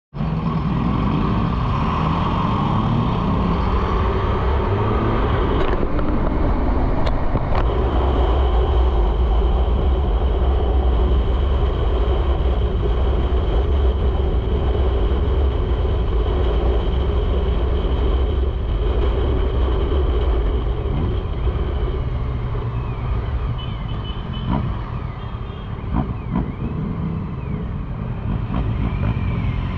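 A motor vehicle driving on a road: steady engine and road rumble, heaviest in the low end, easing a little near the end.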